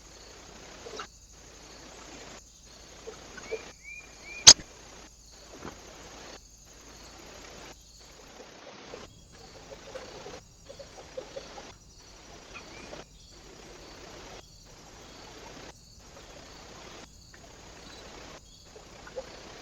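Outdoor ambience picked up by a trail camera at a bird feeder: a steady hiss with a few faint, short bird chirps, broken into short pieces by brief silent gaps about once a second. One sharp, loud click sounds about four and a half seconds in.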